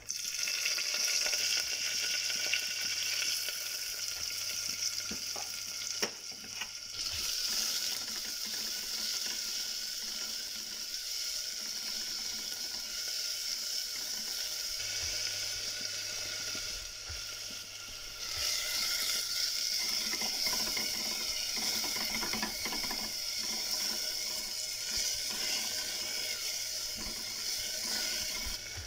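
Green chillies and sliced onions sizzling in hot coconut oil in a clay pot, with a spatula stirring them. The sizzle starts suddenly as they go into the oil, eases briefly about six seconds in and grows louder again around eighteen seconds in.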